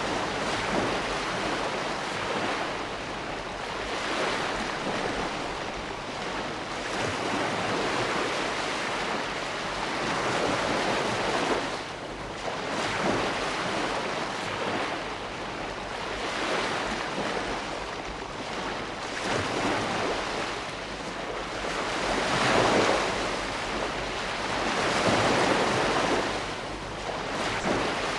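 Ocean waves breaking and washing on a shore, a steady rush that swells and eases every few seconds, with a constant low rumble of wind or surf underneath.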